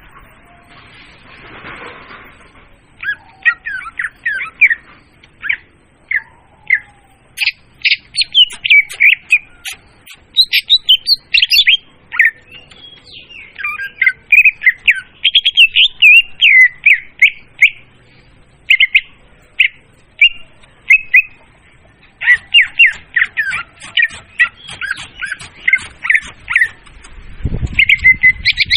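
Leafbird (murai daun) song used as a bird lure: rapid chattering, whistled phrases in bursts with short pauses between them. A low rumble comes in just before the end.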